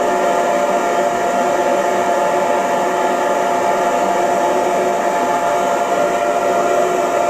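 Electric hair dryer running steadily: an even rushing of air with a constant motor whine.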